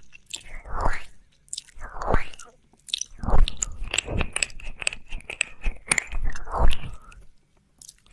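Wet ASMR ear-licking mouth sounds: tongue licks and lip smacks with sharp clicks, repeating roughly once a second, with a short pause near the end.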